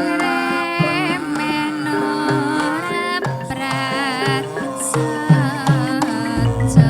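Javanese gamelan music. Bronze metallophones and gongs sustain steady tones, kendang hand drums strike repeatedly, and a wavering melodic line with strong vibrato rides on top.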